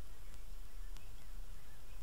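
Small birds chirping faintly over a steady low rumble, with a few sharp clicks.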